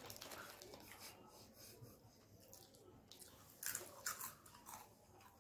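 Slate pencil being crunched and chewed: soft chewing with a few sharp, crisp crunches, the loudest about three and a half to four seconds in.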